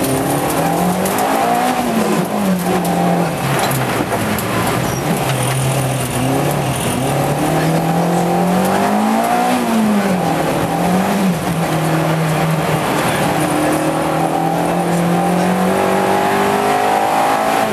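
Peugeot 205 GTI's 1.6-litre four-cylinder engine, heard from inside the cabin at rally pace. The revs rise and fall several times, then make a long steady climb near the end.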